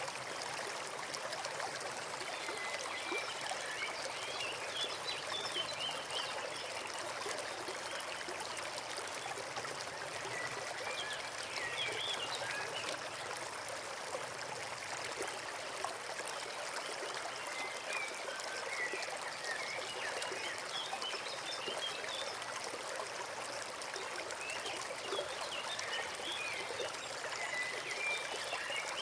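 Small forest stream babbling steadily over stones. A bird chirps in short clusters of notes every several seconds above the water.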